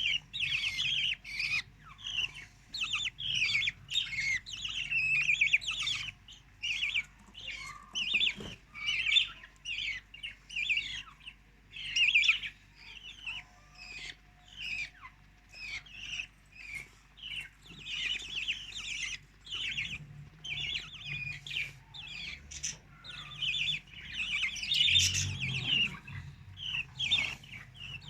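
Budgerigars chirping in dense runs of short, rapid calls, several a second, with brief pauses between runs.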